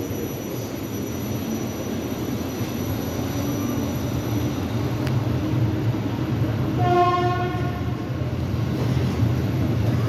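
Passenger train running out of the station, heard from a carriage window, its low rumble growing louder as it gathers speed. One train horn blast, about a second long, sounds about seven seconds in.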